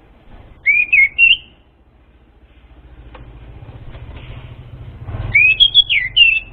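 Orange-headed thrush singing two short phrases of whistled notes that sweep up and down, about a second in and again near the end. A low rumble builds in the background between them.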